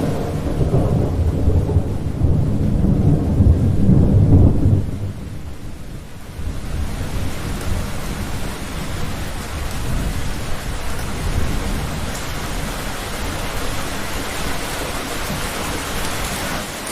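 A thunderstorm: a long, loud roll of thunder rumbles for about the first five seconds, then dies away under steady heavy rain.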